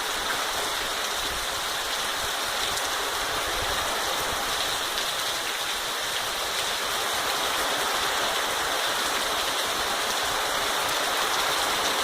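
Heavy rain falling steadily with wind, a continuous even hiss of rain on surfaces.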